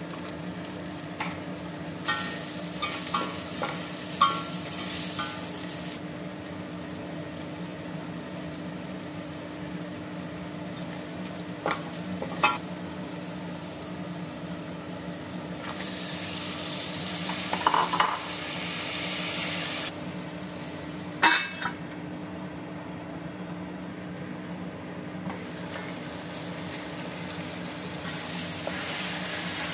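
Masala frying and sizzling in a stainless steel pot while it is stirred, with a few sharp knocks of a utensil against the pot. About halfway through, raw mutton pieces go in and the sizzling grows louder for a few seconds. A steady low hum sits underneath.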